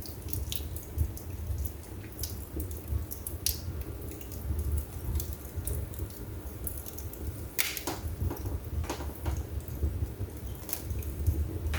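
Wood fire burning in a fireplace: irregular sharp crackles and pops over a steady low rumble of the flames, with a louder pop about two-thirds of the way through.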